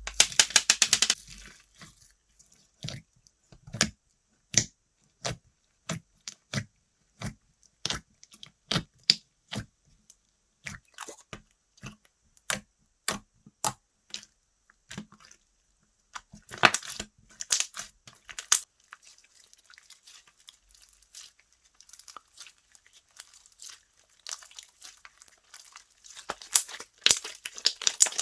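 Slime being pressed and stretched by hand, making a run of sharp clicks and pops, with denser crackling and tearing about two-thirds of the way through and again near the end.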